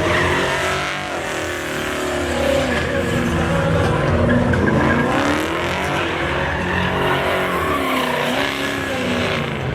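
Pickup truck doing a burnout: the engine revs rise and fall repeatedly while the spinning rear tyres squeal against the pavement.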